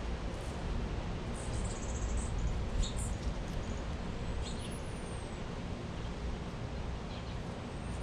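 Small birds chirping briefly and high-pitched several times, with one thin rising-and-falling whistle near the middle, over a steady outdoor hiss and low rumble.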